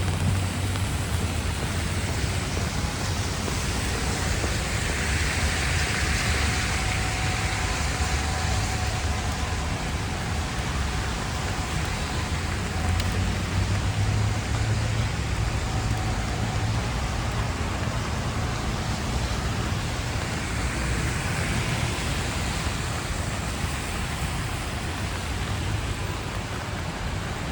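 Rainy city street ambience: a steady low traffic rumble with tyres hissing on wet pavement, and rain falling. Passing vehicles swell up about five seconds in and again about twenty seconds in.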